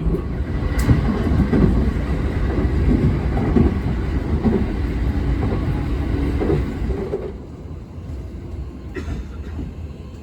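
Uchibo Line electric train running on the rails: a low rumble with irregular wheel clatter that drops away sharply about seven seconds in.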